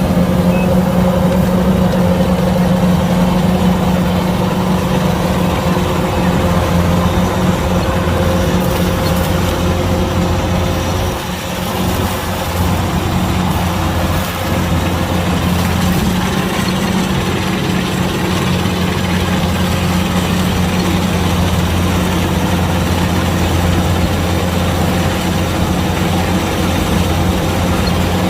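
Kubota DC-105X combine harvester's engine running steadily, with a brief drop in level about eleven seconds in.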